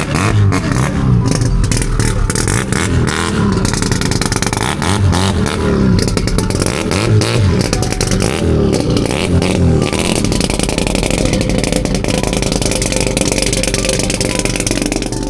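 A vehicle engine being revved in a series of short blips, its pitch rising and falling each time, with a rough, clattery running note. From about ten seconds in it holds a steadier pitch.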